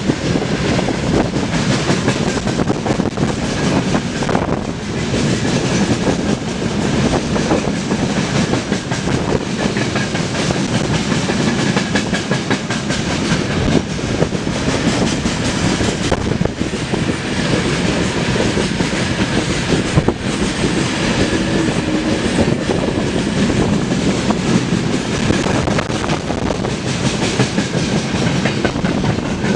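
Freight train rolling past at speed, a steady rumble of wheels on rails with repeated clatter as the wheelsets cross rail joints.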